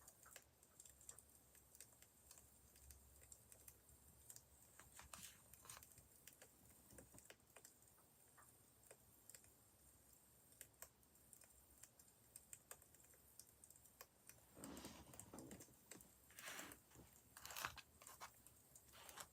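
Faint fire crackling: scattered small pops and ticks at irregular intervals. Several louder rustles come in the last few seconds.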